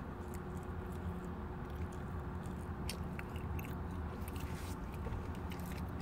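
Quiet chewing and small mouth clicks, close to the microphone, over a steady low hum inside a car cabin.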